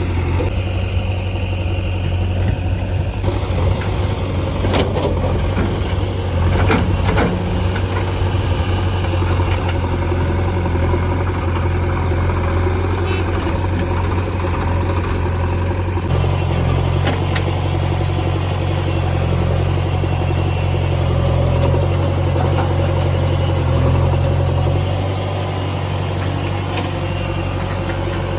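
Heavy diesel machinery engine running steadily with a deep, even hum, with a few sharp knocks about five to seven seconds in.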